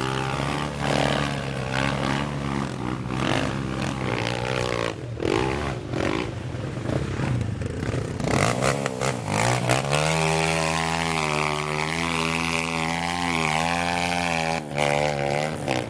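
Off-road trail motorcycle engines revving, the pitch rising and falling, with scattered clatter. From about ten seconds in, one engine runs more steadily at a low speed.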